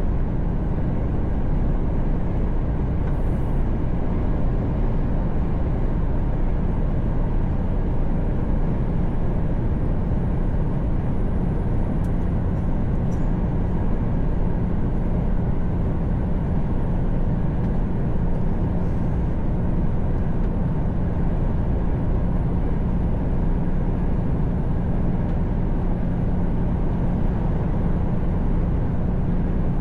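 Mercedes-Benz Actros truck cruising at a steady highway speed, heard from inside the cab: an even drone of engine and tyre noise with no change in pitch or level.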